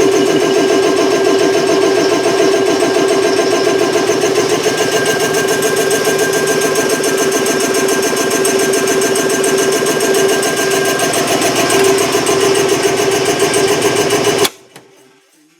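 Belt-driven electric air compressor with a 3 HP Dayton motor running on its first try-out, a loud, fast, even pumping clatter over the motor's hum, its belt not yet adjusted. It shuts off abruptly near the end.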